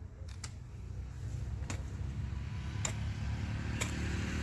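A motor vehicle engine, growing gradually louder as it approaches, with a few single sharp clicks over it.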